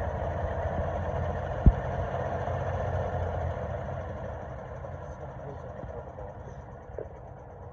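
Beko washing machine running a cycle with a steady mechanical hum and rumble, and one sharp knock about a second and a half in. The running sound dies away gradually over the last few seconds.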